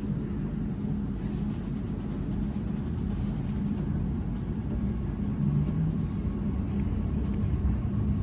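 Inside an Elizabeth Line Class 345 electric train pulling away from a station: steady low rumble of the running gear with a constant hum, and a faint higher tone joining in the second half.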